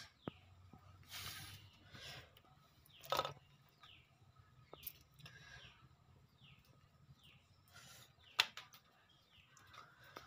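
A bird calling in the background: a faint, steady series of short falling chirps, about one to two a second. A few sharp clicks come through as well, the loudest about eight seconds in.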